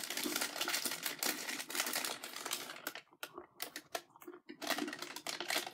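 Close-miked chewing of crispy fried fast food, a run of quick wet clicks and crunches with short breaks about three and four and a half seconds in.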